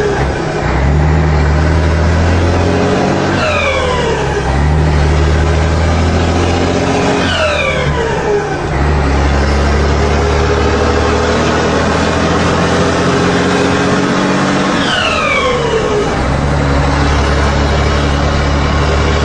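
Scania truck diesel engine pulling through the gears, its turbo fitted with a comb ('pente') in the intake. The turbo gives a siren-like whistle that falls sharply in pitch three times as the driver comes off the throttle to shift, and the engine note picks up again after each shift.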